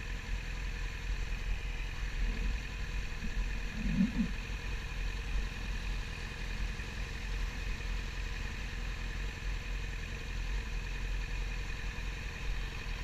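Yamaha YZF-R6's inline-four engine running at a steady, unchanging speed, with a steady low rumble and a short low sound about four seconds in.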